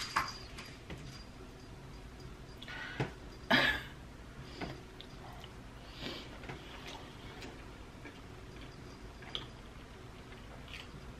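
Quiet chewing of a mouthful of pancake, with a few short soft mouth clicks and smacks, the loudest about three and a half seconds in.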